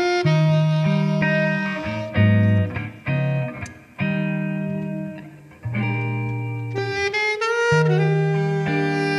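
Saxophone playing a jazz-style melody in held notes over a low accompaniment, with short breaks between phrases near the middle.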